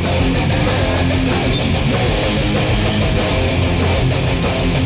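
Hardcore punk band playing live at full volume: distorted electric guitars strumming over bass and drums, the opening of a song.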